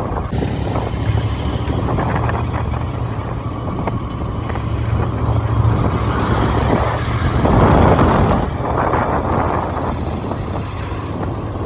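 Motorcycle riding along a road: the engine running steadily under a continuous rush of wind and road noise, with a louder surge of noise about eight seconds in.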